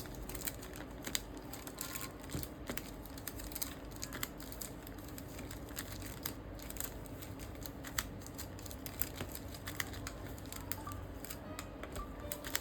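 Irregular light clicks and taps with some rustling, like small objects or packaging being handled, over a steady low hum.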